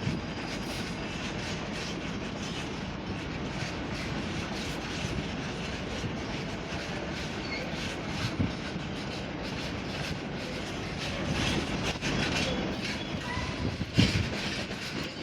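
Freight train's wagons rolling steadily through the station, wheels clattering over the rail joints, with a few heavier thumps, one about halfway and one near the end.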